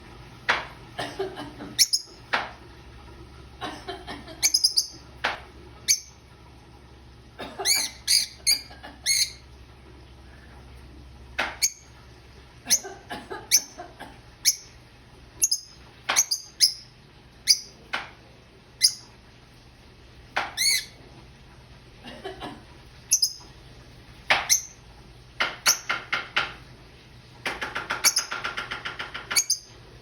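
Pet bird calling in short chirps and squawks, a few dozen scattered calls with bending pitch, and a longer buzzy call near the end.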